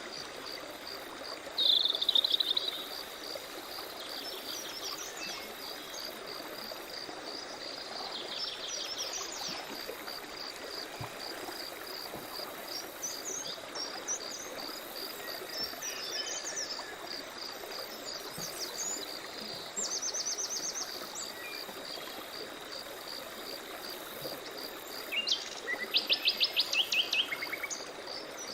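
Several wild birds calling and singing over a steady, evenly pulsing insect chirp and a soft background hiss. The loudest call is a quick run of sharp repeated notes near the end, with shorter trills about two seconds in and around twenty seconds in.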